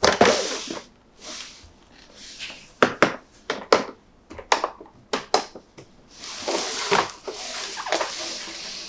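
Packaging and plastic being handled: a run of sharp clicks and taps with short rustles, then a longer stretch of crackly rustling near the end.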